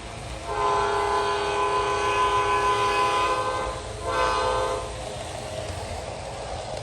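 Model diesel locomotive's onboard sound system blowing a multi-note horn: one long blast of about three seconds, then a short one, over a steady low rumble.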